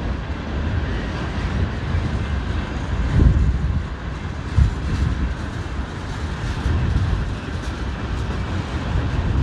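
Freight train running past on the BNSF line, a steady low rumble that swells and eases a little.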